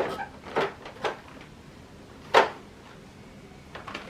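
A few short knocks and clatters of objects being handled, four in the first two and a half seconds with the last the loudest, and a couple of faint taps near the end.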